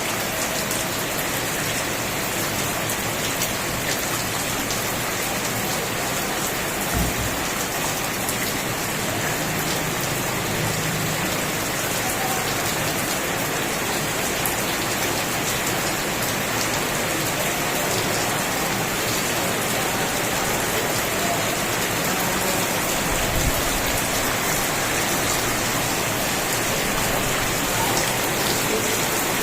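Steady rain falling on a surface, an even dense hiss of drops.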